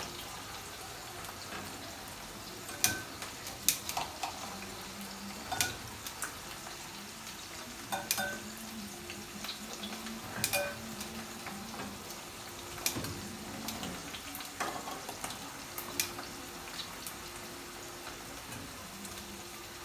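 Jamaican fried dumplings frying in shallow oil on a low flame, with a soft steady sizzle. Metal tongs click and clink sharply against the pan and the ceramic bowl about a dozen times as the cooked dumplings are lifted out.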